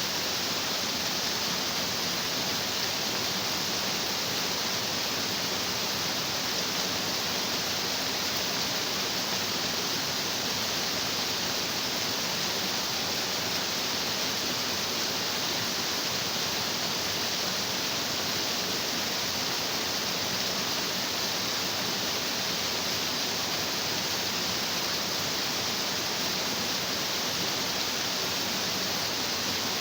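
Stream water rushing and splashing over rocks, a steady, unbroken hiss of running water.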